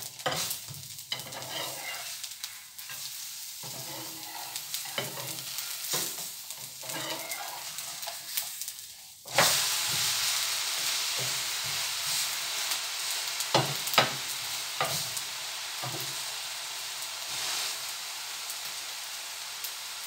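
Mixed-vegetable dosa cooking on a hot pan. For the first nine seconds or so there are light scraping and clicking sounds as the topping is spread. Then a loud sizzle starts suddenly and holds steady, with a few sharp taps about fourteen seconds in.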